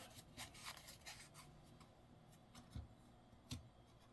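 Faint handling noises of quarters being handled: a few light clicks and rubs, with slightly clearer taps about two and three-quarter and three and a half seconds in.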